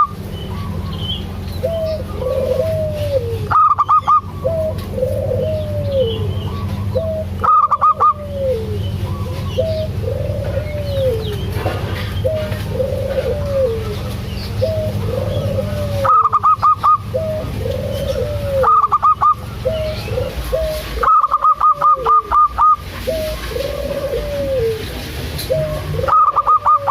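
Zebra dove (perkutut) cooing in a steady run of short arched notes, about one a second. Every few seconds loud rapid stuttering bursts of higher-pitched pulses break in, the longest about 21 seconds in, over a steady low hum.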